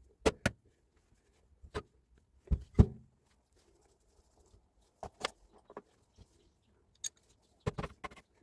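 Scattered metallic clinks and knocks of tools and parts being handled on a workbench while a Hilti TE 905 breaker is taken apart for repair: a pair of sharp knocks just after the start, the loudest knocks about two and a half seconds in, and small clusters around five seconds and near the end.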